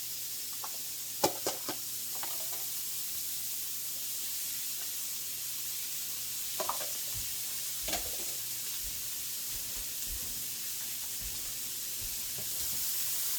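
Onions and peppers sizzling steadily in butter and chicken drippings in a sauté pan, with a few sharp knocks about a second in and a couple more later.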